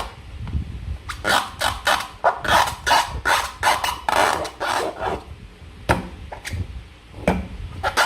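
Slime being squished and worked by hand, making quick runs of wet, sticky clicks and pops, with a short lull near the end.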